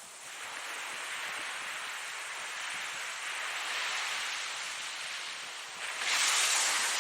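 Ocean surf: a wave washes in just after the start and hisses on, and a louder wave breaks near the end.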